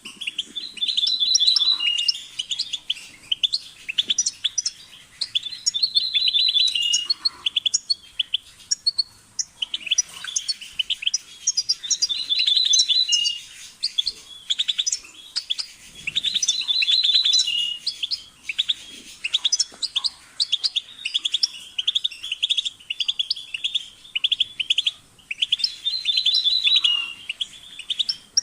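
European goldfinch singing: a continuous run of fast, high twittering, with a louder, denser phrase coming back every few seconds.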